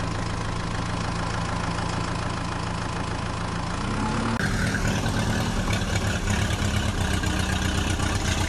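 Heavy diesel engine idling with a steady low hum. About four seconds in it cuts to a higher, faster-pulsing engine running under load.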